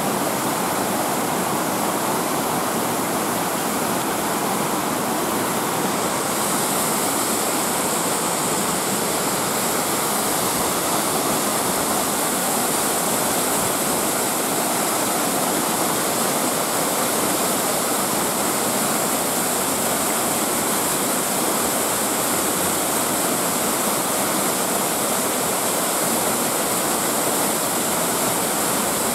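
Waterfall pouring steadily, a constant rushing splash of falling water that turns a little brighter and hissier about six seconds in.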